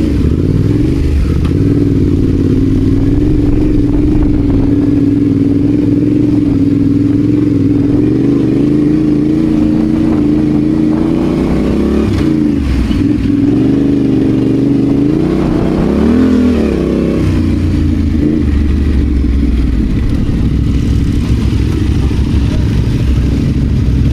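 Adventure motorcycle engine running at a steady pace under way, the revs rising and falling briefly twice around the middle.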